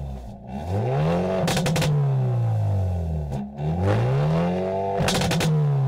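Hyundai Avante N's 2.0-litre turbocharged four-cylinder engine revved twice, each rev climbing quickly and then falling away slowly. A quick rattle of exhaust pops and crackles comes as each rev starts to drop.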